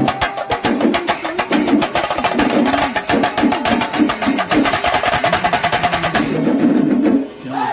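Kerala temple percussion ensemble (melam) playing: chenda drums beaten rapidly with sticks over clashing ilathalam cymbals. It breaks off briefly near the end, then resumes.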